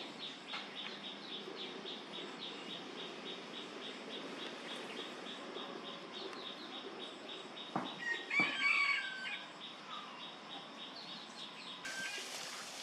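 Countryside bird calls: a short, high note repeated about four times a second, then about eight seconds in a louder call lasting about a second, with several tones at once. Near the end the background changes abruptly to a brighter hiss.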